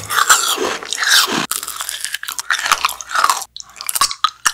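Close-miked eating: a person biting and chewing crunchy sweets in a dense run of loud crunches and chews, with a brief break about three and a half seconds in.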